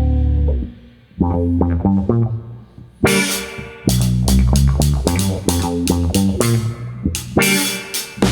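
Baritone electric guitar alone: a held chord fades out under a second in, then a riff of picked single notes, sparse at first and quicker and brighter from about three seconds in.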